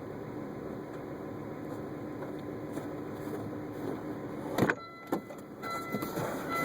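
Volvo car idling with a steady hum, then a car door shuts with a sharp thump about four and a half seconds in, followed by a few faint electronic tones.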